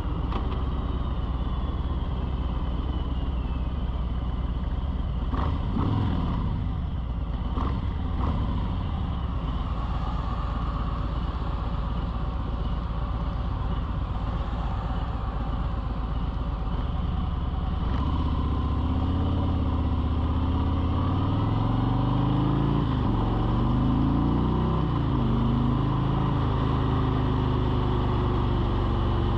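A motor running steadily with a constant hum. About two-thirds of the way through its pitch becomes clearer and rises and falls several times, like a motor changing speed.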